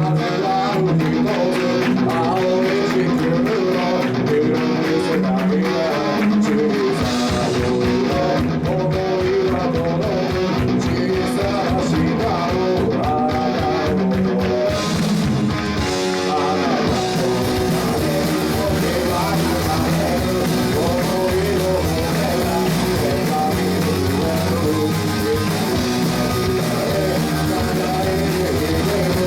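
Live rock band playing a song: electric guitars carry the opening, and the drums and cymbals come in fully a little past halfway through.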